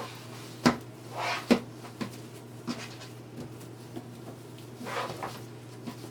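Hands opening the ties on a metal wire wreath form: two sharp knocks under a second apart near the start, short rustles, and light scattered clicks.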